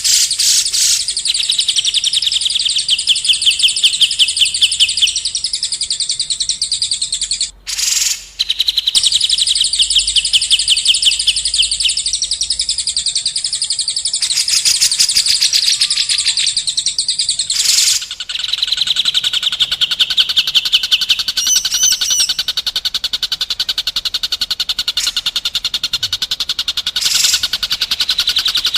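Recorded songbird song played as a tutoring track for shamas: continuous, very fast high-pitched trills and rapidly repeated notes, broken by a short pause about seven seconds in and shifting to new phrases twice after that.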